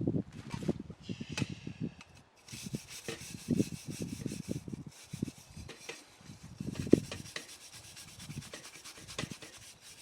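Camp gear being handled during packing up: irregular rubbing and scraping strokes with rustling, ending abruptly.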